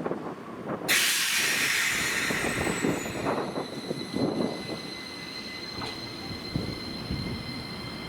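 Tram passing on street track with its wheels squealing in steady high tones. About a second in, a sudden loud hiss starts and fades over the next few seconds.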